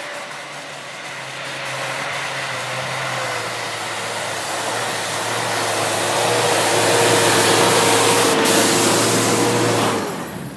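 Off-road 4x4's engine running under load as it climbs a snowy track, growing louder as the vehicle comes close, with a steady engine note. It drops away sharply near the end as it passes.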